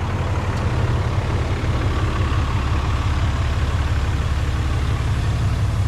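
Straight-piped dually pickup truck's engine running with a steady, deep exhaust rumble, heard from inside the cab.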